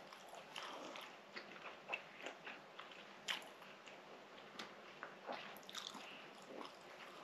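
Close-miked chewing of a mouthful of soft za'atar fatayer flatbread pastry. Faint, with scattered small wet smacks and clicks.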